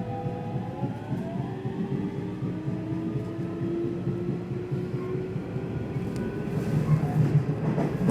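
Nishitetsu electric train running and gathering speed: a motor whine of several tones rising slowly in pitch over the steady rumble of the wheels on the rails.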